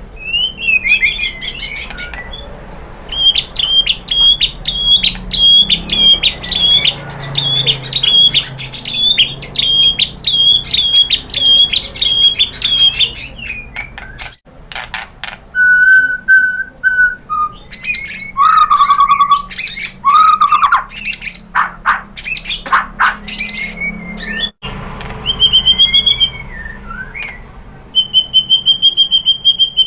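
White-rumped shama (murai batu) singing a varied song: a fast run of repeated high notes, then clear lower whistles, and a rapid trill of high notes near the end. The song breaks off abruptly twice, like splices in an edited recording.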